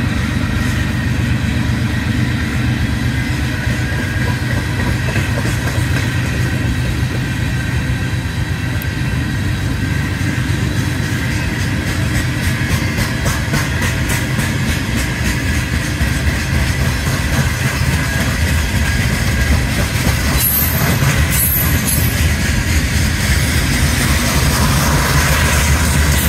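Freight train of gravel hopper cars rolling steadily past: a continuous deep rumble of steel wheels on rail with regular clicking as wheels cross rail joints. Two brief high-pitched squeaks come about twenty seconds in.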